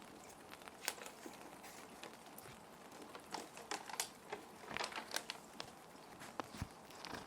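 Plastic sheet protectors crinkling and crackling in short, irregular bursts as paper is handled and slid into them, over a steady hiss of background rain.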